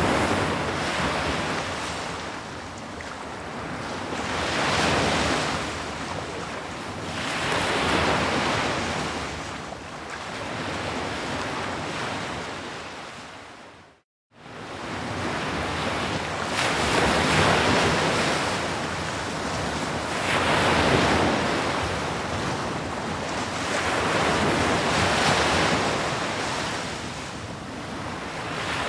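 Sea waves washing onto a shore, the surf swelling and ebbing every three to four seconds. About halfway through, the sound briefly fades out to silence and comes back in.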